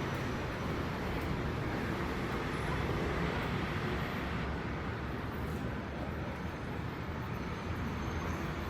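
Steady city traffic noise: a low rumble of passing vehicles with an even hiss of tyres on wet road, easing a little after about four seconds.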